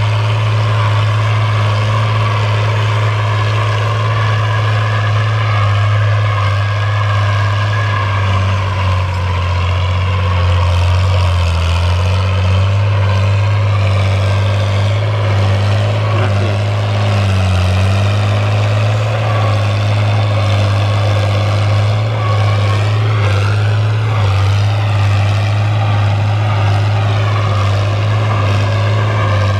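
Fiat 1000 DT tractor's diesel engine running steadily under plowing load, its pitch dipping briefly a couple of times.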